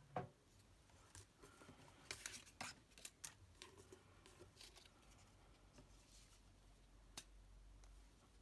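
Near silence with a few faint, scattered rustles and small clicks of card and paper being handled.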